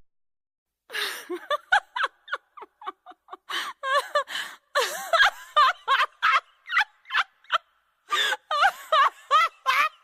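A comic high-pitched laughing sound effect: a rapid string of short giggling bursts with wavering pitch, starting about a second in.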